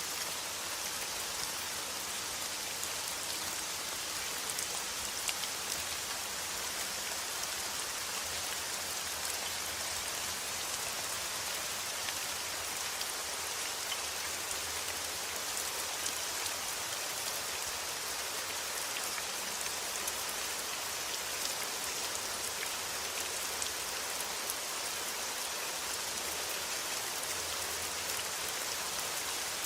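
Steady rain: a dense, even hiss of falling rain with faint scattered drop ticks, unchanging throughout.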